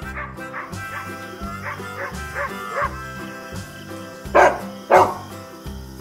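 Dog yelping in a series of short high-pitched calls, then barking twice loudly, over background music.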